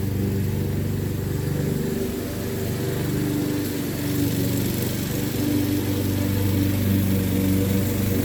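Honda HRX217 walk-behind mower running steadily under load while mowing and bagging wet grass. Its level dips a little about two seconds in, then holds steady.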